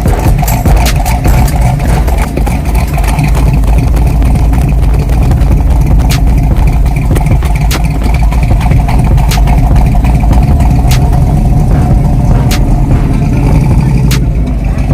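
A car engine running loudly and steadily with a deep sound, with occasional sharp clicks over it.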